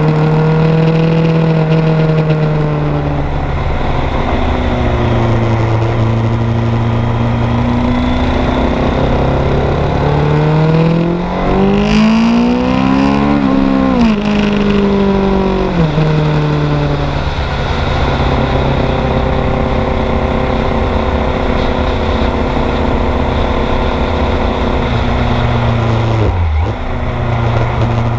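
1986 Kawasaki GPZ900R's inline-four engine heard from on board, mostly holding steady revs. About halfway through the revs climb for a few seconds and then drop sharply and settle lower. There is a short dip in revs near the end.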